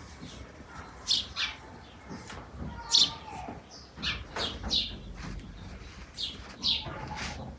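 Small birds chirping: a scattered string of short, sharp chirps, some in quick pairs, with a few lower falling calls among them.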